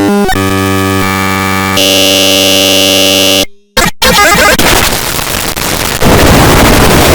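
Harshly distorted, clipped audio of an edited cartoon clip. Loud stacked buzzing tones hold for about three and a half seconds and then cut off suddenly. After a brief silence comes a burst of harsh, noisy crackle.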